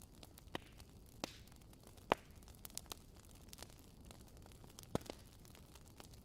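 Wood fire crackling: a soft low rush with irregular sharp pops and snaps. The loudest pop comes about two seconds in and another near five seconds.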